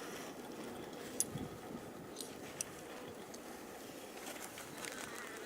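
Honey bees humming steadily at an open hive, with a few light clicks.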